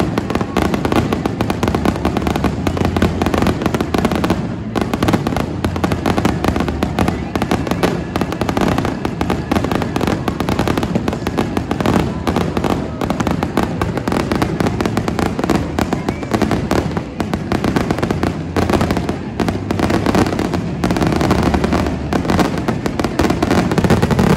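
Aerial fireworks going off without a break: a dense run of bangs and crackling from bursting shells, a little louder near the end.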